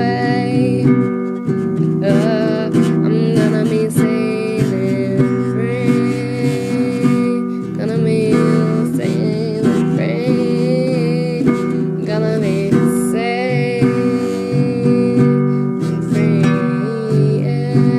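Music without words: an acoustic guitar playing, with a wavering melody line above it.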